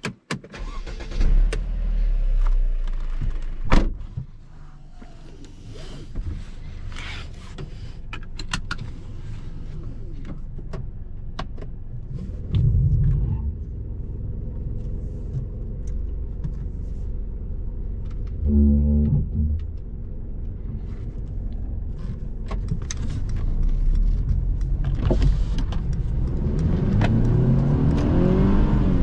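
Mercedes-Benz C200 Coupe's four-cylinder turbo petrol engine heard from the driver's seat: it starts about a second in and idles, with scattered clicks and knocks in the cabin. Near the end the revs rise as the car pulls away.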